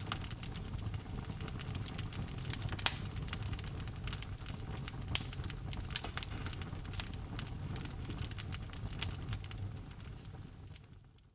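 Logs burning in a fireplace, crackling with frequent small pops and a couple of louder snaps over a low rumble of the flames; the sound fades away near the end.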